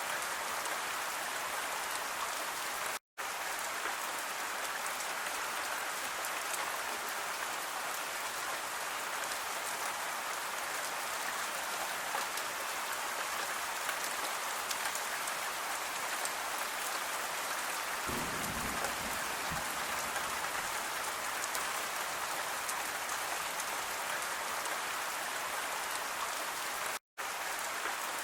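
Steady rain falling, a dense even hiss of drops. A brief low rumble comes about two-thirds of the way through, and the sound cuts out completely for an instant twice, once about 3 s in and once near the end.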